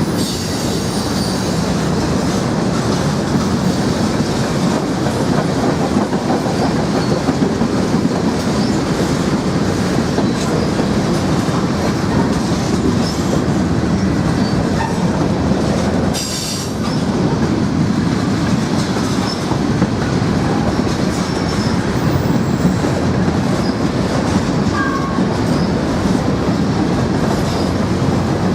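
Norfolk Southern train cars rolling steadily past on the rails, with a continuous clatter of wheels over the track. There is a brief lull about sixteen seconds in.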